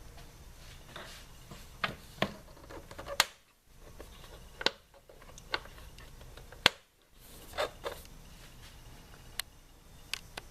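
Sharp plastic clicks and taps, about ten spread irregularly with two louder ones: the spring clips of a Honda Civic's engine air filter housing being snapped shut and the cover handled.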